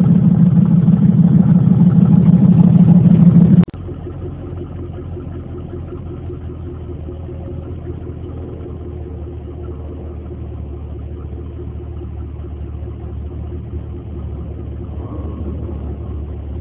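Two V8 engines idling in turn. The first is a loud idle from a red car. At about three and a half seconds it cuts to a quieter, steady, lower-pitched idle from a second vehicle.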